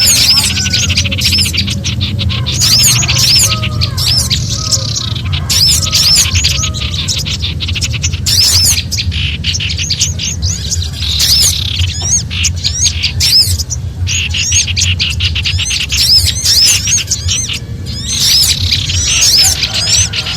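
Mixed small songbirds giving agitated alarm calls: dense runs of rapid, repeated high chirps with short breaks, over a steady low rumble. The calls are a bird-lure recording built from frightened birds such as prinias.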